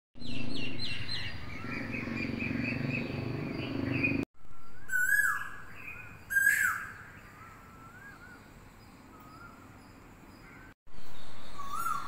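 Several birds calling: a run of quick repeated chirps over a low steady rumble, then louder whistled calls that sweep sharply up in pitch, followed by softer, spaced rising whistles.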